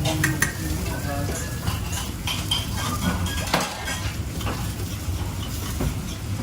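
Metal cooking utensils clinking and scraping against pots, pans and dishes in a few irregular sharp clicks, over a steady low rumble.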